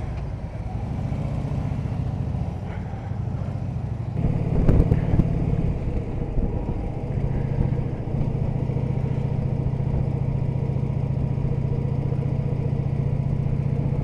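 Harley-Davidson Electra Glide's V-twin engine running steadily under way, with road and wind noise. There is a louder, rougher stretch with a few knocks about five seconds in.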